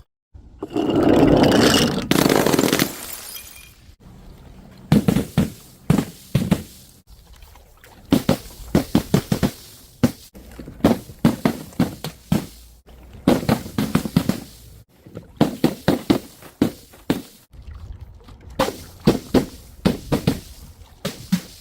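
A burst of breaking glass near the start, then many sharp crunching cracks coming in quick clusters as things are crushed.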